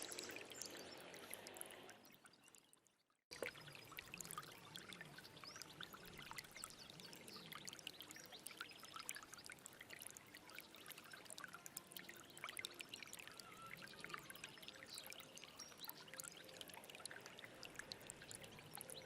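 Stream water running and trickling, with many small splashes. About two seconds in it fades away to a brief silence, then cuts back in suddenly and runs on steadily.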